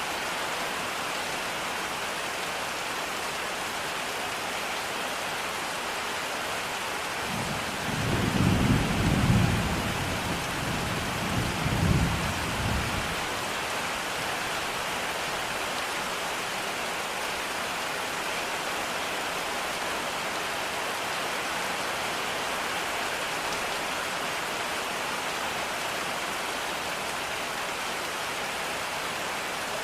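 Steady rain falling. A low rumble of thunder swells twice about a third of the way in and lasts around five seconds.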